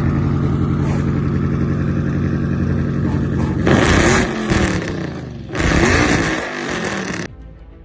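Twin-turbo Ford Mustang Shelby GT500 V8 idling steadily, then revved twice, each rev rising sharply in pitch and falling back; the sound cuts off abruptly near the end.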